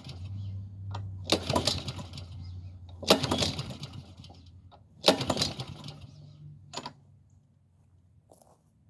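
Honda lawn mower engine being pull-started by its recoil cord: three hard pulls about two seconds apart, each a short burst of rope whir and engine cranking, and the engine does not catch. A small click follows near the end.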